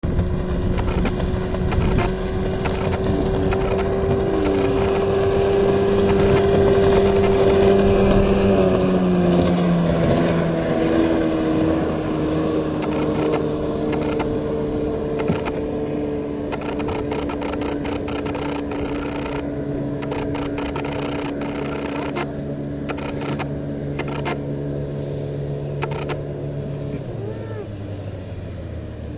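30 hp outboard motor pushing a converted jetski hull, running steadily at speed. Its pitch drops about a third of the way in, holds steady, then drops again near the end.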